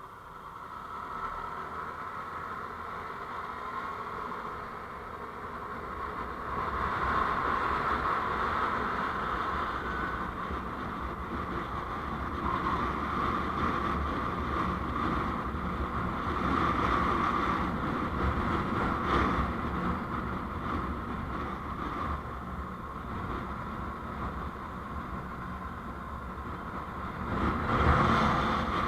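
Steady rush of a moving road vehicle, engine, tyre and wind noise together, growing louder over the first several seconds and peaking briefly near the end.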